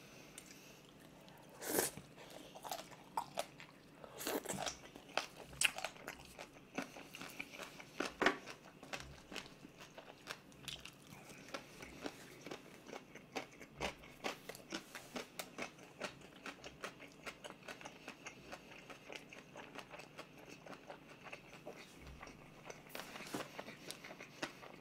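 A person biting and chewing a mouthful of green onion kimchi (pa-kimchi), many small wet crunches throughout, with a few louder bites about 2, 4 and 8 seconds in.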